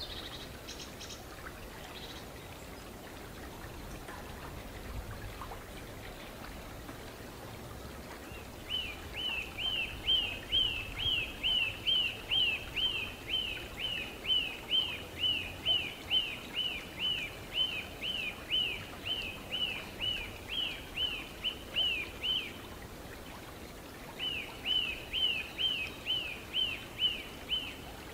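Eurasian nuthatch singing: a long series of clear, rapidly repeated whistled notes, each falling in pitch, about two to three a second. After a short break comes a second, shorter series. A steady hiss of background noise lies underneath.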